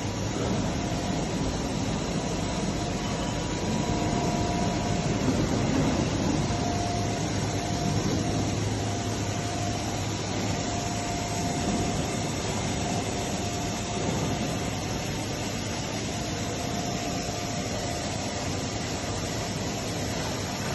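Heavy-duty roll grinder running: a steady machine hum and hiss, with a faint thin whine that comes and goes.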